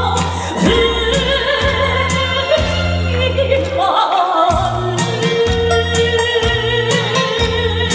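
Trot song with a female singer drawing out a sung line with vibrato over a backing track with a steady bass line and drum beat.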